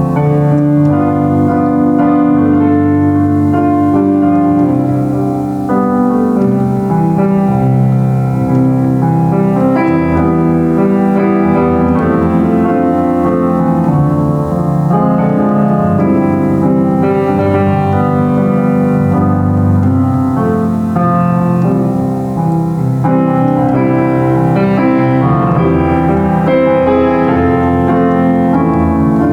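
Solo piano playing a slow hymn with full chords under a melody, steady throughout.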